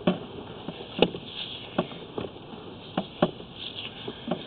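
A series of irregular sharp knocks and clicks, about seven in all and unevenly spaced, over a faint steady hiss.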